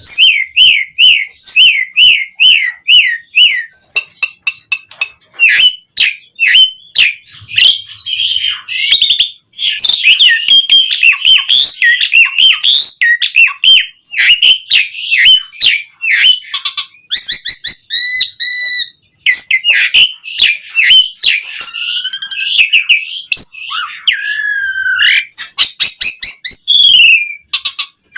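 Asian pied starling (jalak suren) singing a long, varied song: runs of quick repeated whistled notes, sharp clicks and rising and falling whistles, with short pauses between phrases.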